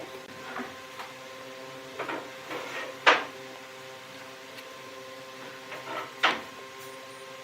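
Wood lathe running with a steady motor hum, while a turning tool cuts the spinning wood in short bursts. The loudest cut comes about three seconds in and another about six seconds in.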